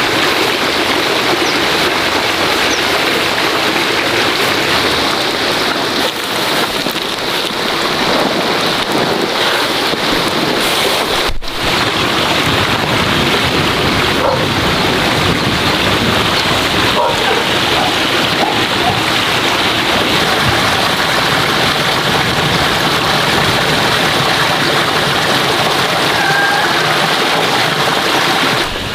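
Steady rushing of water, with a momentary break about a third of the way in.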